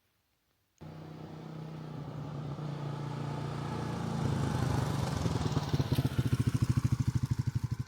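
Honda XL250S single-cylinder four-stroke motorcycle engine running. It starts suddenly about a second in and grows steadily louder, its separate exhaust pulses standing out clearly in the second half.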